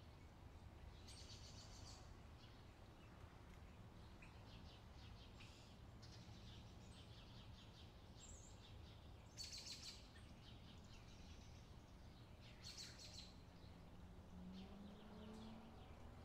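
Near silence with a low hum and faint bird chirps, including a few short bursts of rapid high trilling.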